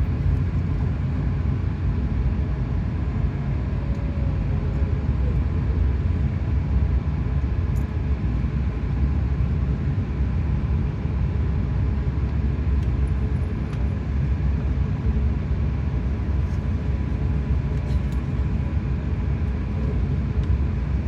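Cabin noise inside an Airbus A380-800: the engines and airflow make a steady low rumble with no change in level.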